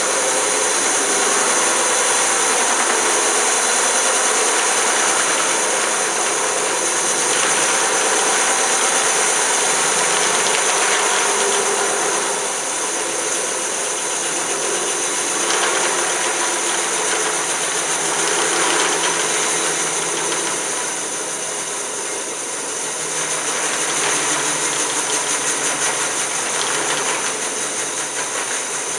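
Greenlee No. 410 36-inch high-speed vertical band saw running: a steady mechanical whir with a strong high hiss, its level swelling and easing slightly.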